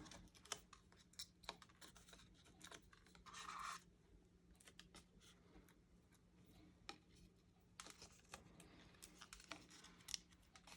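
Faint scratching and small clicks of paper being handled and worked on a craft table, with a short rasp about three seconds in, over a steady low hum.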